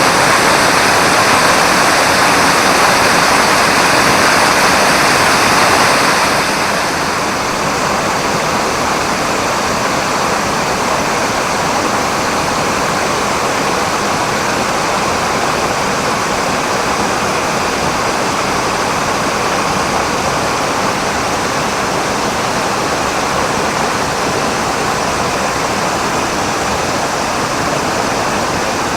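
Spring-fed waterfall: groundwater spilling from a rock face and cascading down, a steady rushing of falling water. It is louder and brighter for about the first six seconds, then drops a little.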